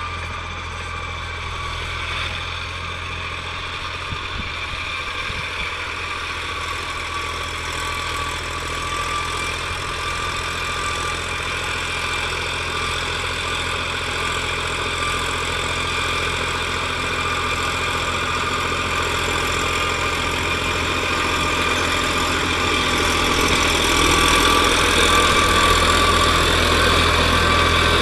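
New Holland tractor's diesel engine running steadily, growing gradually louder and loudest over the last few seconds.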